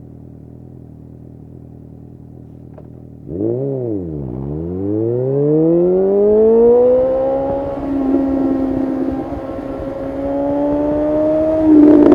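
2019 Suzuki GSX-S750 inline-four through a Yoshimura SQ11 exhaust with no dB killer, idling, then given a quick throttle blip about three seconds in. It then accelerates hard, its pitch climbing for several seconds before holding steady. Exhaust pops start to crackle right at the end.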